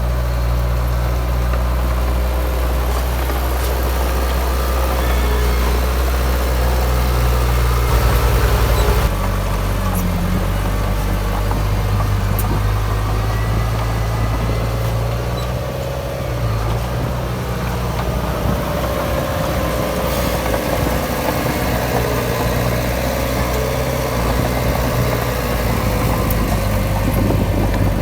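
Diesel engines of heavy earthmoving machinery running steadily, with a change in the engine note about nine seconds in.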